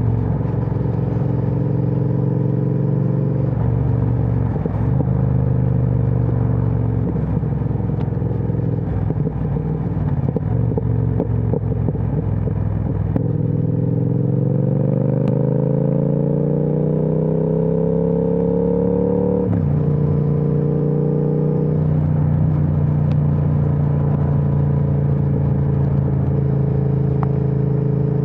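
Triumph Speed Twin 1200's parallel-twin engine through an aftermarket Vance & Hines exhaust, heard from the saddle while riding. About halfway through, the engine note climbs steadily as the bike accelerates, then drops sharply on an upshift and settles back to a steady cruise.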